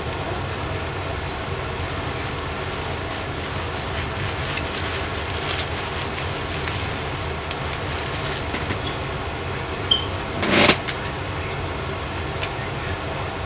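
Chewing and faint mouth clicks of a man eating a chicken flatbread sandwich over a steady background hiss, with one short loud noise about ten and a half seconds in.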